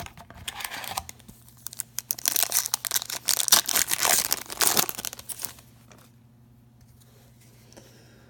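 A trading card pack's foil wrapper being torn open and crinkled: a dense crackle for about five seconds, loudest in the middle, then it stops.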